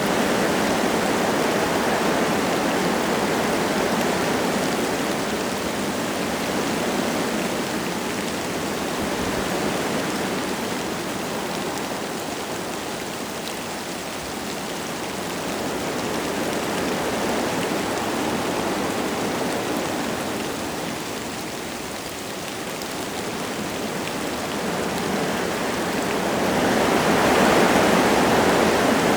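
Wind gusting through forest trees, a steady rushing that swells and eases in slow waves, strongest in a gust near the end, with light rain falling through it.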